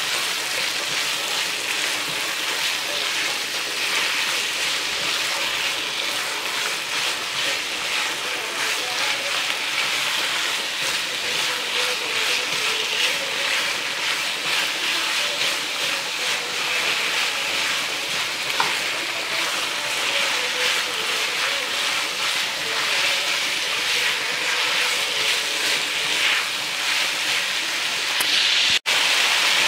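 Diced chicken breast sizzling steadily in butter and garlic in a frying pan. The sizzle cuts out for an instant near the end, then comes back a little louder.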